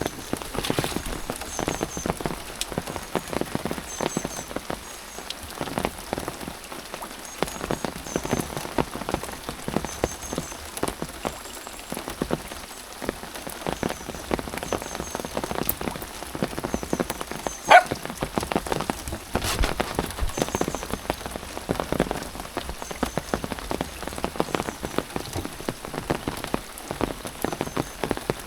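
Steady rain falling, a dense irregular patter of drops hitting nearby surfaces, with one sharper tap about 18 seconds in.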